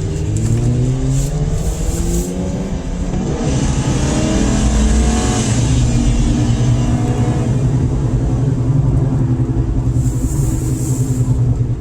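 A car engine revving hard at high load, its pitch repeatedly rising and falling. A loud hiss swells up and fades in the middle.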